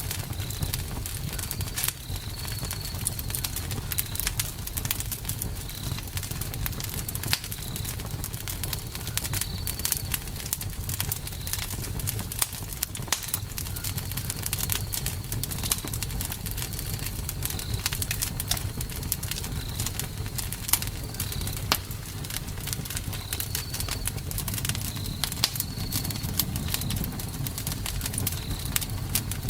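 Campfire burning, with many irregular sharp crackles and pops over a low steady rumble of flame. A short high chirp repeats steadily in the background.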